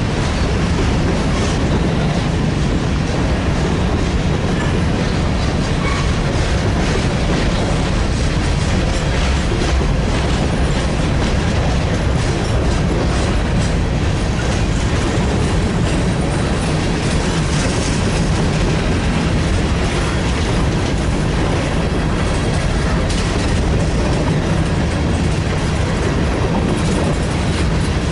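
Freight train cars rolling past, a steady loud rumble of wheels on rail with clickety-clack over the rail joints.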